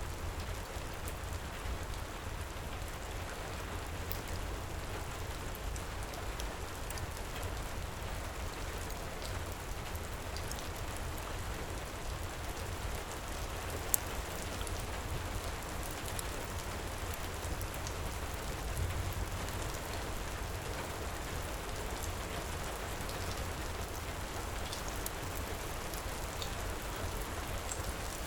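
Steady heavy rain pouring, mixed with faint scattered crackles from a fireplace, and one sharper pop about halfway through.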